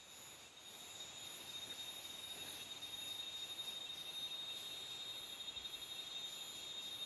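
Tropical jungle insect chorus. A steady high-pitched buzzing tone sits under a still higher chorus that pulses about twice a second.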